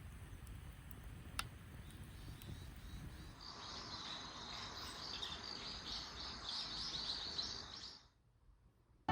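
Outdoor ambience with a low steady rumble and a few faint clicks. About three seconds in, a flock of small birds starts chirping densely and continuously; this stops abruptly near the end.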